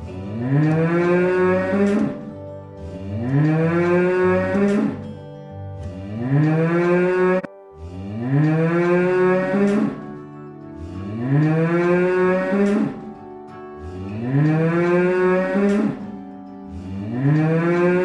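Cow mooing over and over, one long call about every two and a half seconds, each rising in pitch at the start and then holding.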